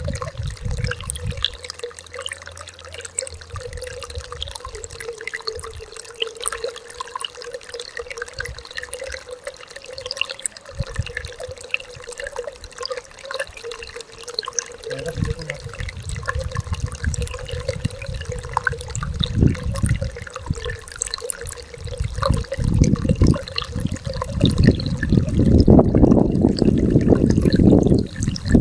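Stream flowing, the water trickling and splashing with many small drips over a steady rush. From about halfway, low rumbling surges build up and are strongest near the end.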